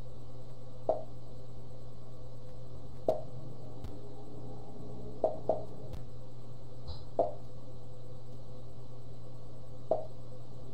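Irregular dull knocks, about six of them a second or two apart with one quick pair near the middle, over a steady low hum: the repeated knocking coming through the home that the man is fed up with.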